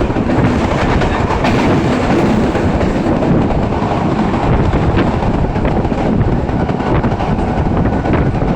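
Passenger train running on the rails: a steady, loud rumble with wheels clattering over the rail joints and a few sharp clicks.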